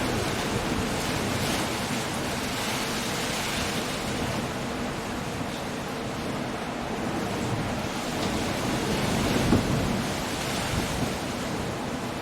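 Coastal storm ambience: wind, rain and surf breaking on a rocky shore make a steady, dense rush, with one brief louder surge about nine and a half seconds in.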